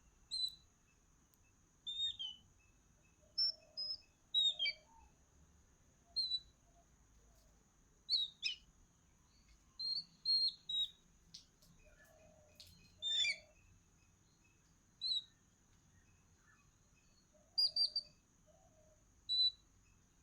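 Small birds chirping: short, sharp calls every second or two, some in quick pairs, over a faint steady high-pitched whine.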